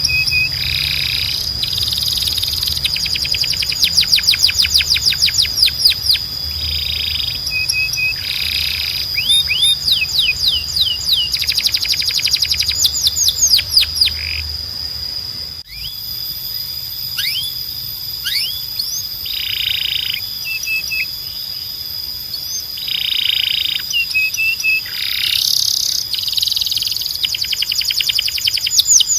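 Timbrado canary singing: phrases of fast repeated notes and rolls, high-pitched, over a steady high trill. The song dips briefly about halfway through.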